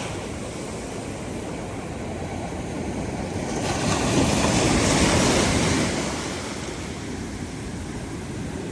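Ocean surf on a beach: a steady low wash of waves, with one wave breaking about three and a half seconds in, swelling and then washing back out.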